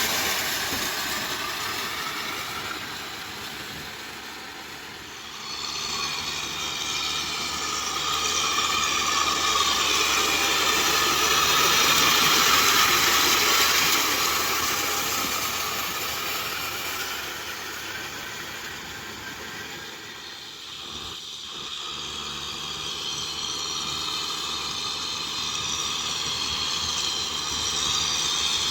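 Kubota M6040SU tractor's four-cylinder diesel engine running steadily under load while driving a rotavator, with a broad hiss over the engine note. It swells louder and fades as the tractor moves, loudest about midway and faintest about two-thirds in.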